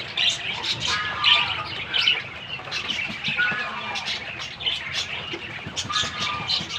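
Budgerigars chirping and warbling, a steady stream of short rapid chirps with a few longer pitched warbled notes.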